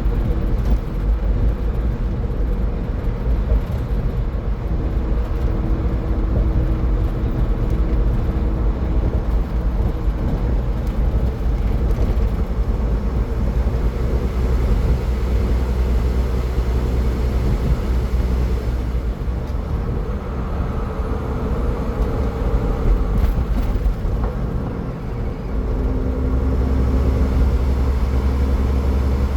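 A car driving at highway speed: steady tyre and engine rumble. It eases briefly near the end, then comes back stronger.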